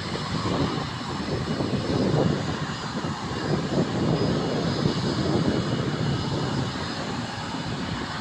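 Airliner's engines rumbling steadily, swelling a little in the middle.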